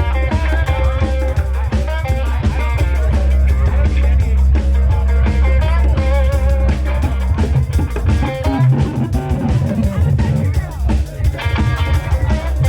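Live band playing: electric guitar lines over bass guitar and drum kit, the low end dropping away briefly about two-thirds of the way through.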